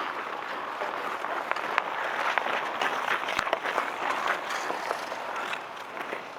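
Outdoor ice hockey in play: skates scraping and carving on the ice, with frequent sharp clacks of sticks and puck. The loudest knock comes about three and a half seconds in.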